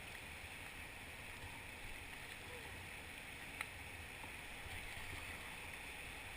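River water rushing steadily around a drifting raft, an even hiss with no paddle strokes; one small knock about three and a half seconds in.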